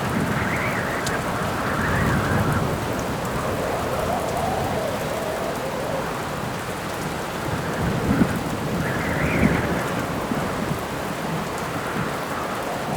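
Rainstorm: steady rain with howling wind whose pitch rises and falls in slow gusts, and low rumbles of thunder, the strongest about eight to nine and a half seconds in.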